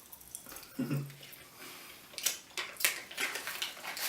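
Popping candy crackling and fizzing in a mouth: a scatter of small sharp pops that grows thicker about two seconds in. A short hum of a voice comes about a second in.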